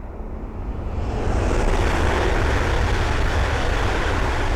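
East Midlands Railway Class 222 Meridian diesel-electric multiple unit passing at speed. It grows louder over the first second and a half, then stays loud as it goes by close at hand.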